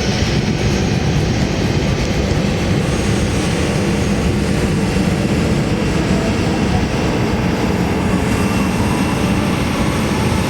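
Boeing 737-800's CFM56 turbofan engines running, a loud steady jet noise heavy in the low end.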